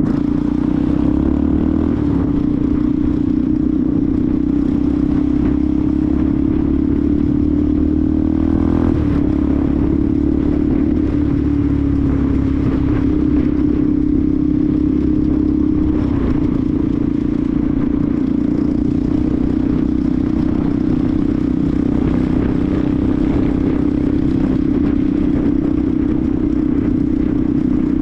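Benelli TNT 125's single-cylinder engine running steadily under way. Its note climbs a little and then steps down about nine seconds in, and shifts again around sixteen seconds in.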